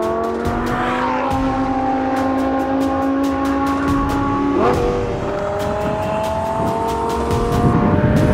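Lamborghini Huracán's V10 engine under hard acceleration, its pitch climbing steadily through a gear. About four and a half seconds in it snaps through a quick upshift and then climbs again.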